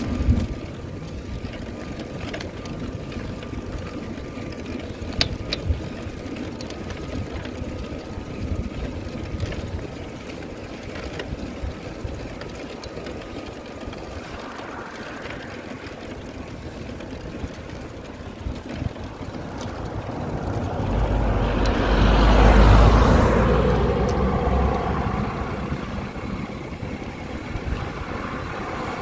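Road noise while riding, with wind rushing over the microphone, swelling to its loudest about three-quarters of the way through.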